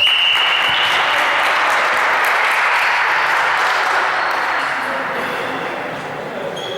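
A referee's whistle blows once at the start, then applause and cheering that fade slowly over several seconds.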